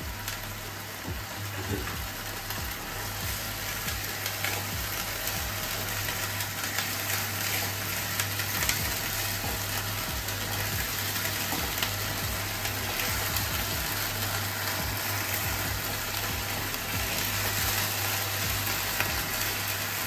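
Onion, ginger and garlic paste frying in oil in a non-stick pan: a steady sizzle with frequent small scrapes and taps of a silicone spatula stirring it. The paste is being cooked down until the raw onion smell is gone.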